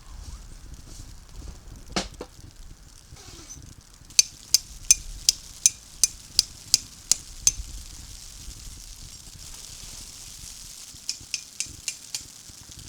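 A metal utensil knocking against metal cookware: one knock, then a run of sharp, evenly spaced clicks at about three a second, typical of stirring or mixing in a pot or bowl. After the clicks comes a soft hiss, and a shorter run of clicks follows near the end.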